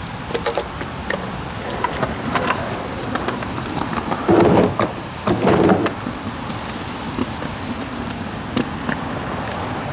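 Steady rain with scattered sharp clicks. About four and five seconds in come two louder, rough bursts of skateboard noise: wheels and deck on wet concrete and the rail slider.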